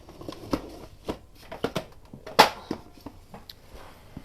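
Handling of craft materials on a table: a string of light taps, clicks and rustles, with one sharper knock about two and a half seconds in.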